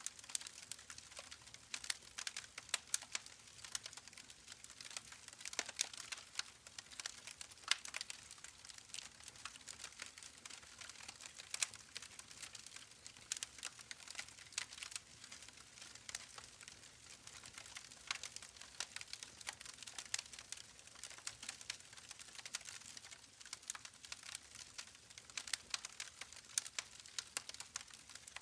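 Campfire crackling, a steady stream of small irregular pops and snaps over a faint hiss.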